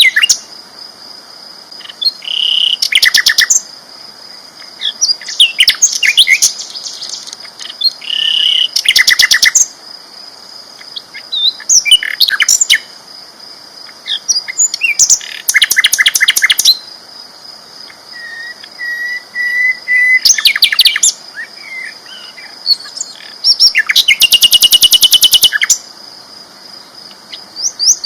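Sikatan londo flycatcher singing loudly in repeated phrases of rapid, trilling notes, each burst lasting about a second and coming every few seconds. A steady thin high tone runs underneath.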